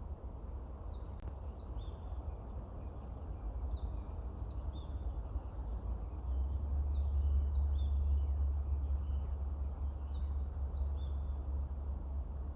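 A songbird singing a short phrase of high notes stepping downward, repeated four times about three seconds apart, over a steady low rumble that swells in the middle.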